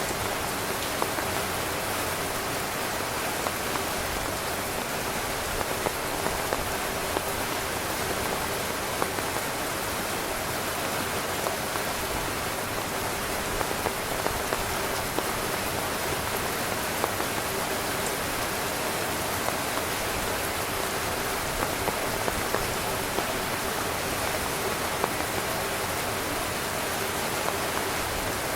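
Steady rain falling on a tent, with many single drops tapping sharply over an even hiss.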